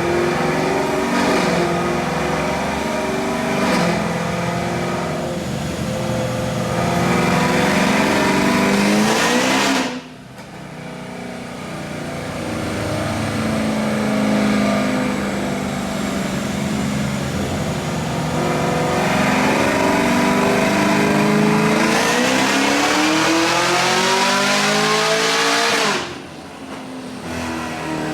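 Supercharged V8 of a Chevrolet Camaro ZL1 revving hard under full throttle, rising in pitch through gear changes, then dropping off abruptly about ten seconds in as the throttle is lifted. A second long full-throttle pull climbs steadily in pitch and cuts off sharply near the end.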